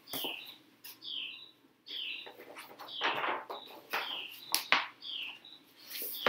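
A small bird chirping over and over, short falling chirps about once a second. A few sharp clicks and a short rustle sound between them.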